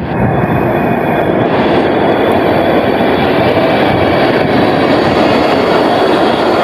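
Tram passing close by: a loud, steady rumble of steel wheels rolling on the rails.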